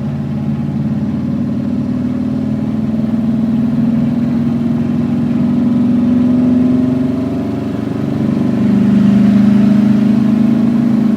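Vehicle engine running on the road, heard from on board: the engine note climbs slowly, drops about eight seconds in, then holds steady.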